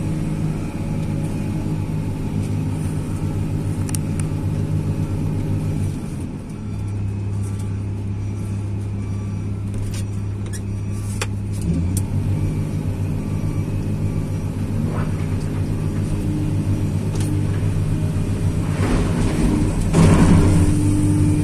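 Tracked excavator's diesel engine running steadily under work. Its note drops about six seconds in and picks back up about twelve seconds in. Scattered sharp clicks sound over it, and a louder clatter comes near the end.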